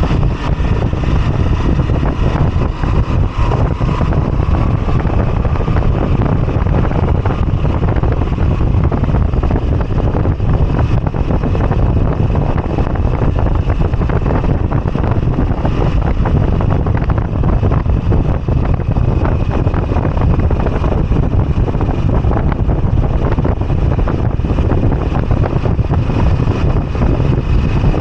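Moto Guzzi V85TT's air-cooled transverse V-twin running steadily while riding, with wind buffeting the microphone.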